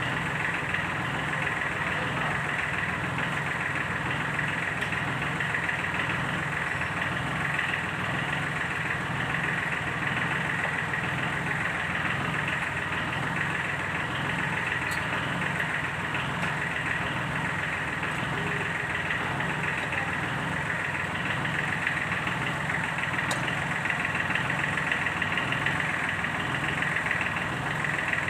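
D1462-TV diesel engine of a Sunshine L1-255 tractor running at a steady idle, with an even, unchanging rhythm.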